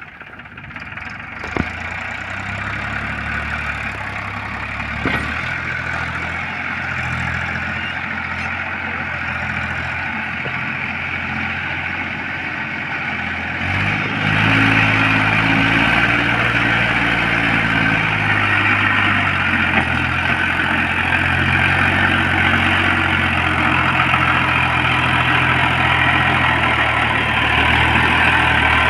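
Tractor diesel engine running, with the throttle opened about fourteen seconds in, after which it runs louder and higher.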